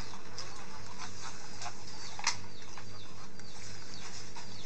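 Birds chirping, many short falling calls overlapping each other, over a steady low hum, with a single sharp click about two seconds in.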